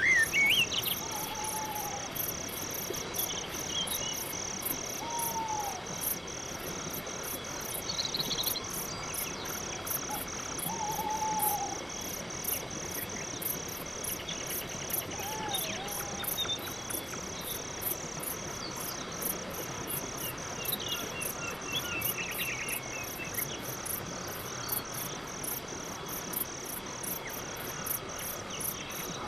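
Crickets chirping in a steady, even pulse, joined now and then by short falling calls and brief higher chirps.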